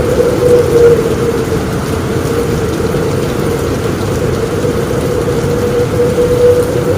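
Steady heavy rain drumming on a roof, with a low rumble of storm underneath.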